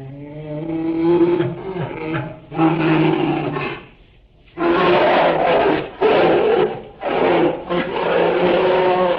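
Farm animals calling: loud, drawn-out calls, one long call in the first few seconds, then after a brief pause a string of rougher calls in quick succession.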